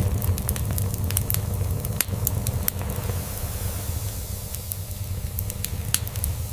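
Crackling log fire: quick, sharp pops and snaps, thickest in the first half, over a continuous low purring rumble from a cat that eases off about halfway through.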